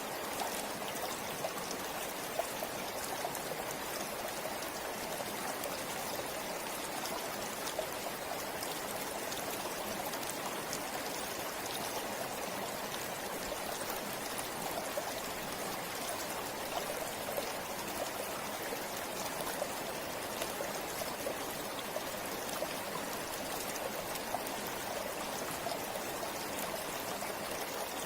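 A river or stream flowing steadily over rocks, a continuous rush of water with small splashes and trickles throughout.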